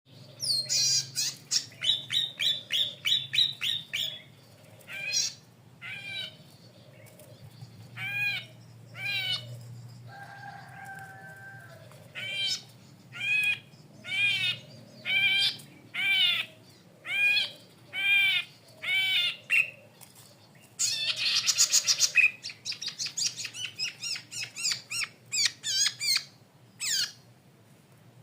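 Cisticola (cici padi kepala merah) singing: a fast run of short high chirps, then single arching notes about once a second, a loud dense burst of notes and another quick chirping series.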